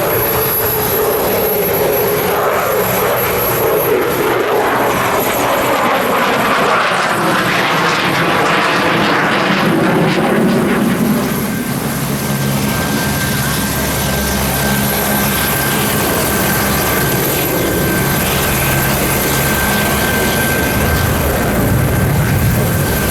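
Leonardo AW249 Fenice attack helicopter in display flight: loud, steady rotor and engine noise, with a thin high whine that comes in about halfway through.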